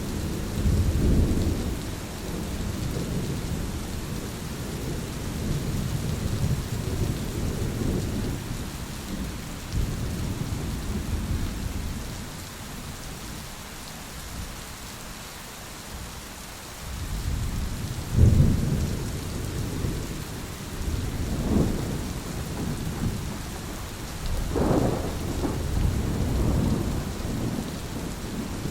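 Thunderstorm: steady rain with rolling thunder, the rumbling easing off in the middle, then three sharper claps of thunder in the last ten seconds, the first of them the loudest.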